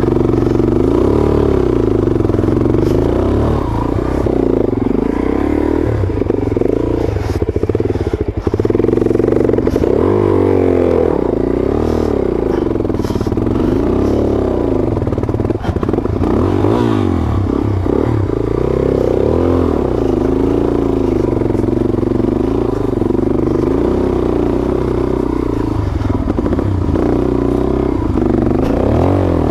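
Suzuki DRZ400S single-cylinder four-stroke engine revving up and down again and again under load as the bike climbs, with occasional knocks and scrapes. The engine is running lean on bad fuel, which the rider says makes it pop and sputter.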